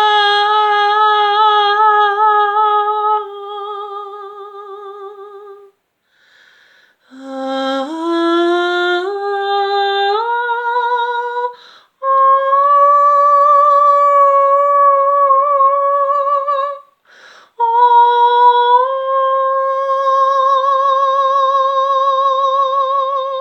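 A high female voice singing wordless long-held notes with a wavering vibrato, with short breaths between phrases. Near the middle, after a brief pause, a run of notes climbs step by step up to the next long held note.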